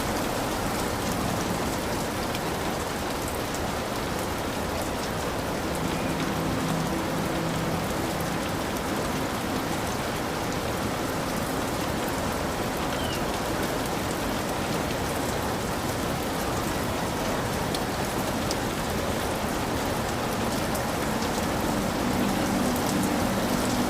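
Heavy rain falling steadily on a hut roof, a dense even hiss of drops with no let-up.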